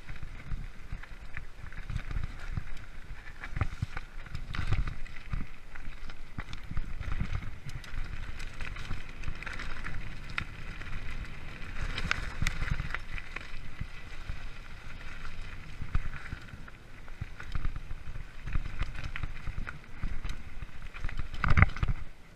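Freeride mountain bike rolling along a forest trail: a continuous rumble of tyres on dirt, with frequent knocks and rattles from the bike over bumps, loudest shortly before the end.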